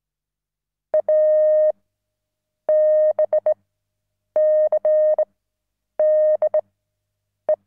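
Morse code sent as a steady single-pitch beep, keyed in dots and dashes in five separate letter groups that read A, B, C, D, E.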